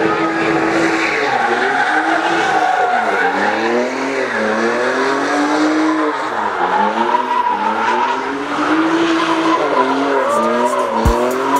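Car engine revving hard with tyres screeching, the engine note swinging up and down every couple of seconds as the car slides in a takeover stunt. A few sharp clicks near the end.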